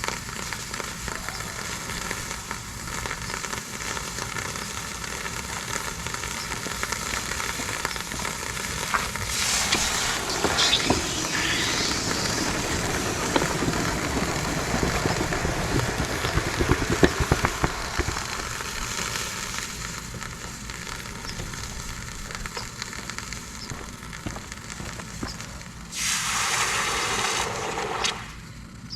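Freshly cast hot copper ingots and coins quenching in water, sizzling and crackling. The sizzle grows louder and more crackly about ten seconds in, and a short loud hiss comes near the end.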